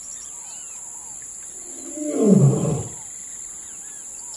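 Wildlife ambience sound effect: a steady high insect-like drone and scattered bird chirps, with one loud animal roar about two seconds in that falls in pitch and lasts about a second.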